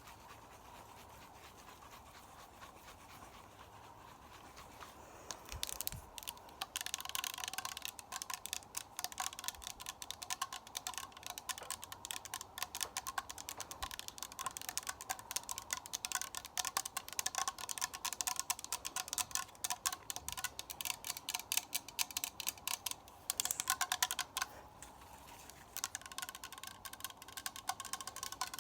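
Close-miked ASMR trigger sounds: fast, dense clicking and tapping that starts about six seconds in, with two short pauses near the end.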